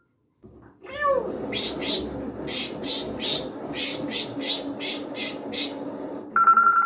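African grey parrot calling: a falling whistle-like call about a second in, then a run of about a dozen short raspy, hissing bursts. Near the end a steady telephone-like ringing tone begins.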